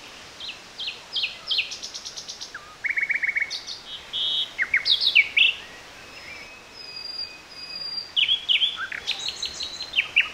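Songbirds singing: several birds' chirps and quick trills overlapping, one after another.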